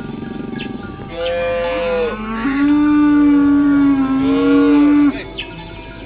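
Cow mooing: one long, loud call of about four seconds that starts about a second in, steps up in pitch partway through and is then held before it cuts off.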